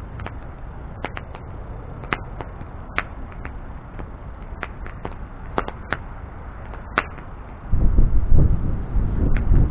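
Wood bonfire burning, with a steady low rush and scattered sharp crackles and pops. Near the end a much louder low rumble sets in.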